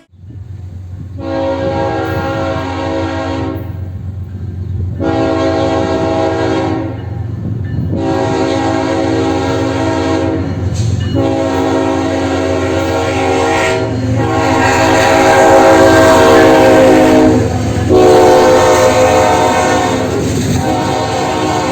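A diesel locomotive's air horn sounding a long series of drawn-out blasts with short breaks between them, growing louder about two-thirds of the way through, over the steady low rumble of the engine.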